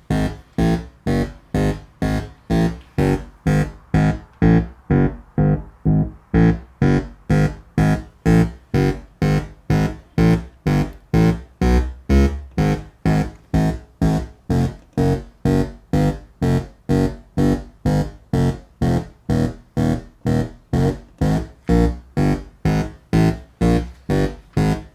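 Electronic synthesizer music: a sequenced pattern of short, plucked-sounding pitched notes, about two a second, each dying away quickly.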